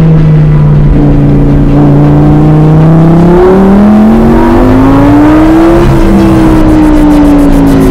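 Added car-engine sound effect revving, its pitch rising through the middle and easing down near the end.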